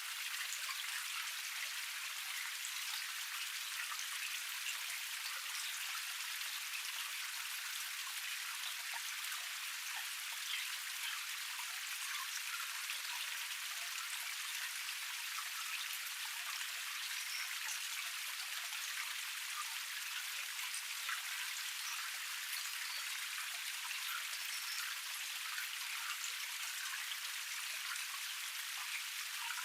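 Small waterfall cascade running steadily over rocks: an even hiss of falling water with a fine patter of splashing drops.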